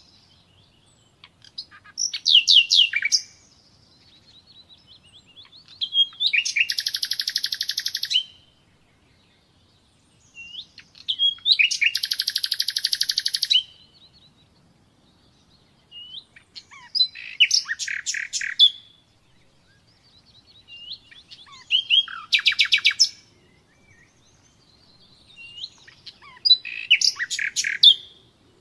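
Common nightingale singing: about six loud phrases, each a fast trill or run of rapidly repeated notes lasting one to two and a half seconds, with pauses of a few seconds between them.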